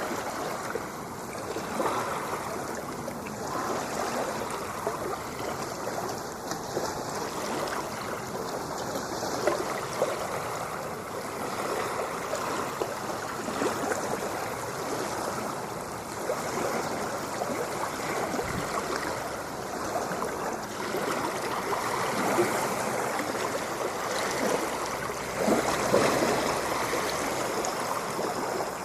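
Ocean water washing and lapping in a steady rush, with constant bubbling and fizzing, swelling louder briefly near the end.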